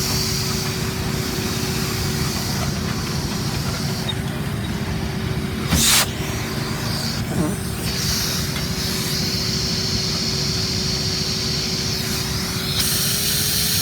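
Machinery running steadily with a constant hum and low rumble, and a high hiss that cuts out for a few seconds and comes back. There is one sharp knock about six seconds in.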